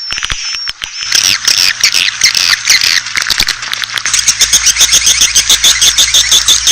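Swiftlet call recording: high twittering chirps with rapid clicks, thickening about a second in and becoming a dense chorus about four seconds in, when a low steady hum joins.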